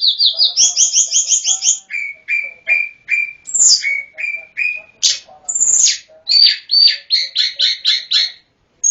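Hill blue flycatcher (tledekan gunung) singing a rapid, varied song: quick runs of repeated high whistled notes and sweeping slurs, one phrase after another, with a short break near the end.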